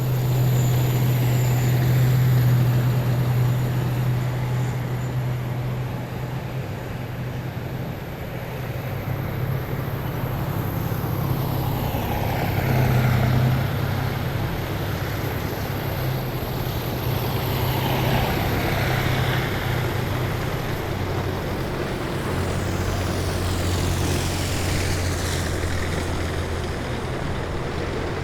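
A column of heavy military vehicles driving past, their engines a steady low drone. In the second half a vehicle sweeps past close by, and the drone drops in pitch near the end.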